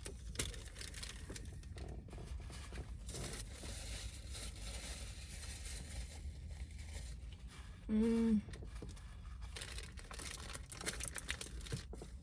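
Paper sub wrapper crinkling and rustling faintly as a sandwich is handled and eaten, with one short hummed voice sound about eight seconds in.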